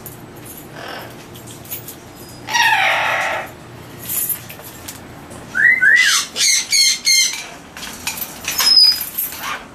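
Captive parrots calling in an aviary: a loud squawk about two and a half seconds in, two short rising whistles near six seconds, then a quick run of repeated calls and another loud call near the end, with scattered clicks between.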